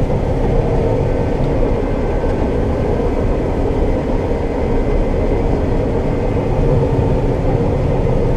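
Combine harvester running steadily while cutting soybeans: a constant loud drone of engine and machinery with a steady hum.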